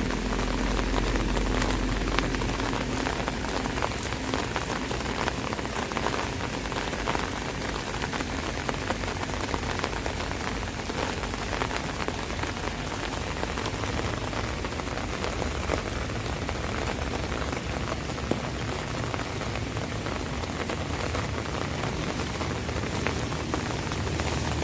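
Steady rain falling on an umbrella: a dense, even hiss with many small, sharp taps of drops.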